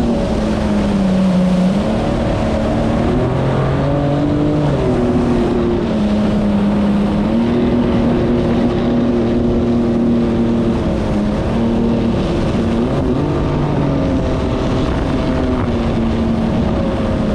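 Personal watercraft engine running under way over a steady rush of noise. Its pitch shifts with the throttle: it dips about a second in, rises around four seconds in, drops back, and then mostly holds steady.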